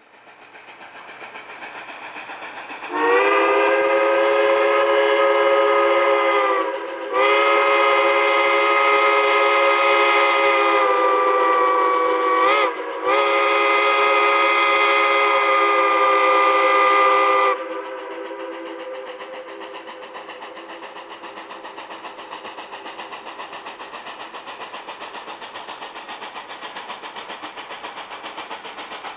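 Narrow-gauge steam locomotive's chime whistle, a chord of several tones, sounded long, long, short, long: the grade-crossing signal. The train's running noise builds before the whistle and continues afterwards with a steady regular beat.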